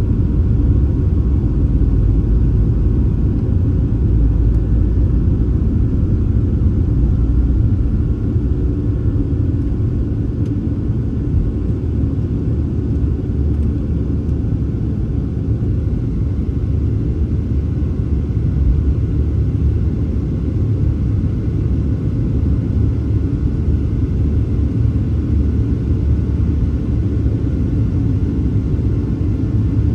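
Steady, loud low rumble inside the cabin of a Boeing 737-700, from its CFM56-7B jet engines and the rush of air, with a few faint steady tones above it.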